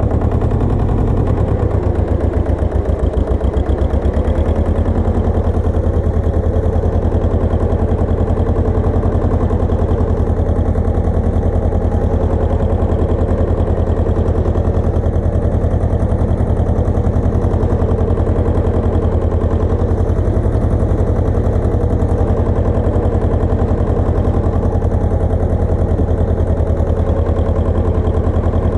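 Pasquali 980 EX two-wheel tractor's engine running steadily, with a rapid, even pulsing beat; its low tone shifts about four seconds in and then holds.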